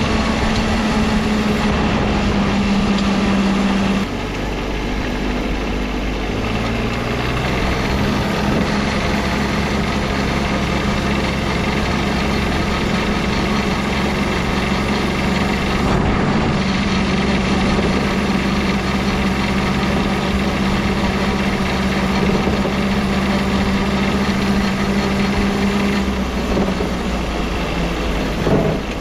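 Small diesel engine of a diesel-swapped Power Wheels ride-on truck running steadily; about four seconds in it drops in level and changes pitch, then holds steady again.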